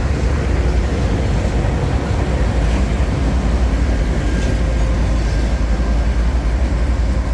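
A CSX freight work train moving slowly past, with a steady, loud rumble of diesel locomotive engines and rolling cars on the rails.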